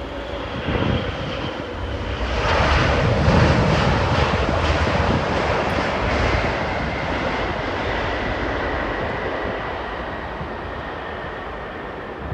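Jet airliner passing close by as it lands, its engine noise swelling to a peak about three seconds in and slowly fading, with a steady high whine underneath.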